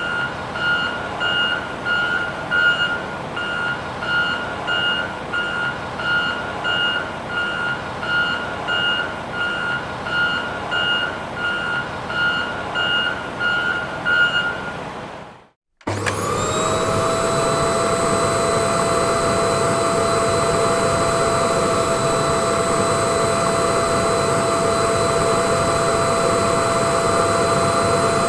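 A vehicle reversing alarm beeps steadily, about one and a half high beeps a second, over a steady engine-like noise. It cuts off about halfway through, and after a brief gap a vacuum cleaner starts up with a loud steady whine and rushing air.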